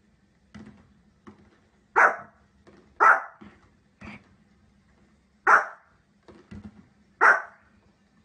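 A dog barking: four loud, sharp single barks spaced a second or two apart, with fainter short sounds between them.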